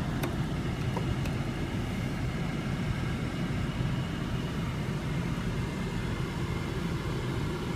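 Steady low hum of a car engine idling, heard from inside the cabin, with a couple of faint clicks in the first second or so.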